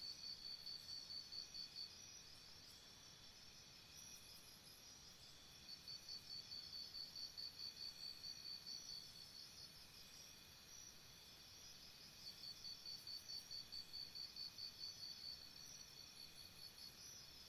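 Faint chorus of chirping insects. One nearer insect chirps in runs of about three seconds, about four chirps a second, three times.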